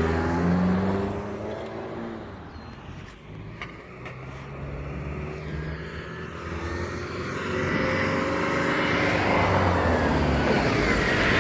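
Road vehicle engine and tyre noise. One vehicle pulls away and fades over the first few seconds, then another approaches, getting steadily louder with its engine pitch rising.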